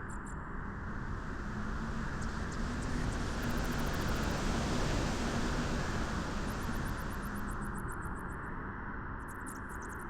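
Wind blowing steadily, swelling into a stronger gust through the middle and easing off again. Trains of rapid, faint high ticking come and go near the start and end.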